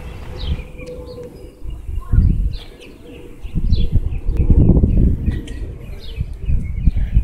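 Small birds chirping, short falling notes about twice a second, over a louder, uneven low rumble.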